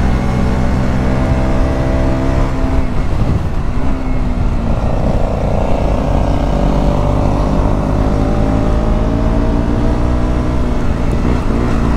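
Single-cylinder engine of a KTM Duke 125 running through a LeoVince exhaust with the dB killer removed, heard from the rider's seat. Its note falls as the bike slows, changes about four seconds in, then rises steadily as it pulls again.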